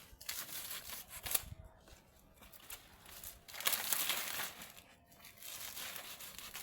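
Dry banana leaves crinkling and rustling as they are handled, coming and going in uneven stretches, with a sharp crack about a second and a half in and a louder stretch of rustling around four seconds in.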